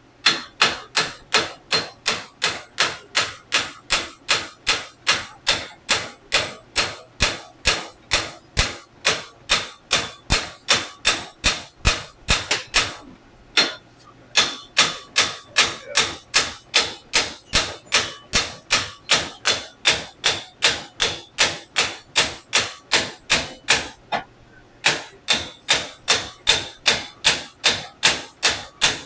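A hammer striking metal over and over at a steady pace, about three blows a second, each blow ringing. It stops briefly twice, about 13 and 24 seconds in, then carries on.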